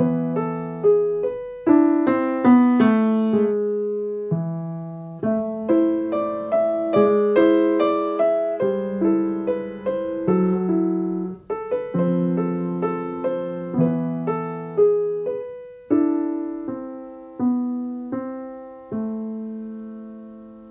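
Solo piano playing a slow melody over lower chords, each note struck and left to ring and fade.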